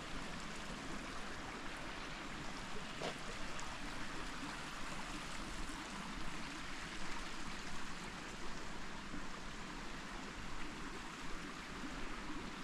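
A creek flowing steadily over rocks, a continuous rushing and trickling of water.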